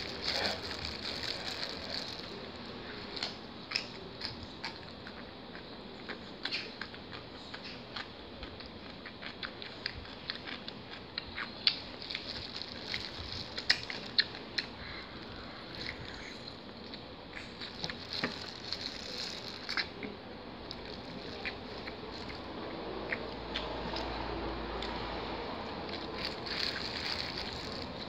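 Eating sounds: chewing, with scattered sharp clicks and crinkles as thin disposable plastic gloves tear apart a roast chicken drumstick and handle food.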